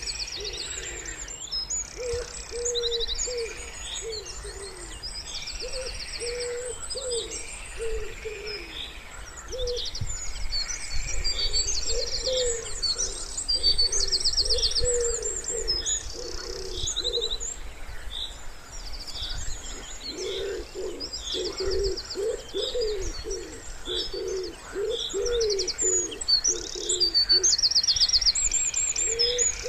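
Wood pigeon cooing in repeated low phrases, over a chorus of small songbirds chirping and singing fast high trills.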